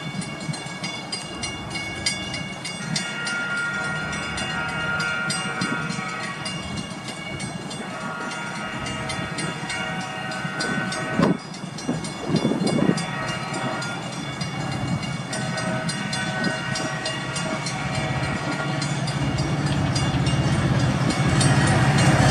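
Approaching Metra commuter train led by an EMD F40PH-3 diesel locomotive. Its engine grows steadily louder as it nears, and there are two sharp knocks about halfway through.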